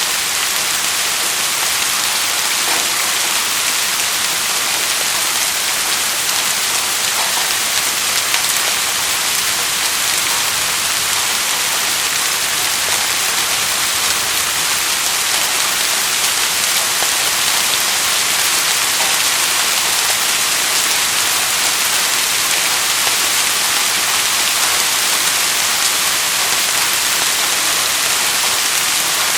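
Steady rainfall: an even hiss of rain falling on surfaces, with fine scattered drop ticks.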